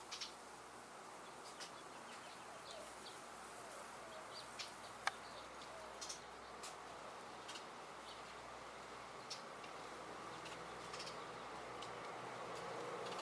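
Quiet backyard ambience: a steady rush of wind or distant noise that grows louder near the end, with scattered short bird chirps and small clicks, and one sharp click about five seconds in.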